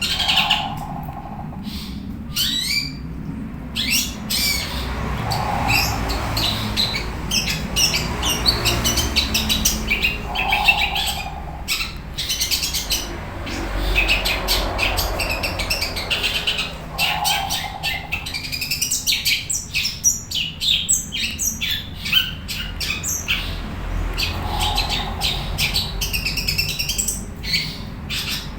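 Caged long-tailed shrike (cendet) singing freely: a long, varied run of rapid chattering and whistled high notes, with a short lower note repeating every few seconds.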